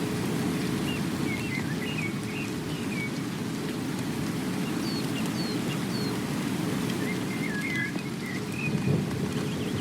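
Steady rain with a deep, constant rumble under it, and a small bird chirping in short bursts of high notes over the rain, several times.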